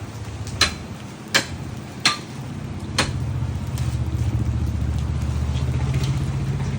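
A series of sharp clicks, about one a second, over the first three seconds; a motor vehicle's engine then comes up as a steady low hum and grows louder.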